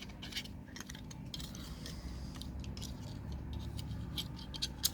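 Plastic kit parts of a Snap Circuits Motion toy airplane being handled and fitted together: scattered light clicks and rattles, coming more often near the end.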